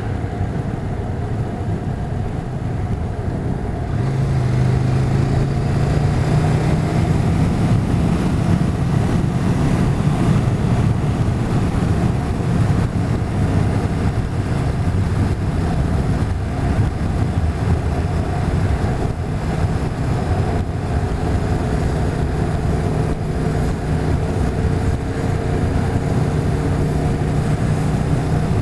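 Motorcycle engine running under way with steady wind and road noise; the engine pitch and loudness pick up about four seconds in, as the bike accelerates.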